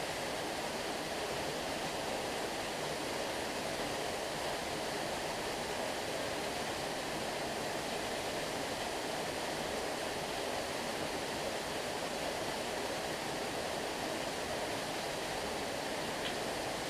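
Stream water running steadily: an even, unbroken water noise.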